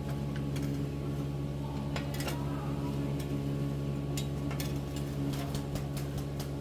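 Small gasoline engine running steadily at constant speed, with sharp ticks and clicks over the hum.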